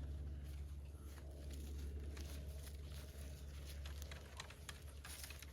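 Loose soil being worked by hand around a newly planted apple tree, with scattered light crackles that grow denser toward the end, over a steady low engine-like hum.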